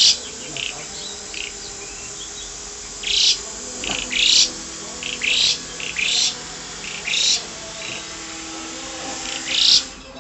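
Javan pied starling (jalak suren) singing in lively form: loud, separate whistled calls repeating about once a second, with a quieter stretch near the start and another near the end.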